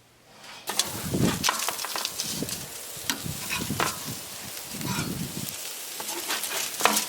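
Burger patties sizzling on a hot grill, starting about half a second in, with scattered crackles and knocks throughout.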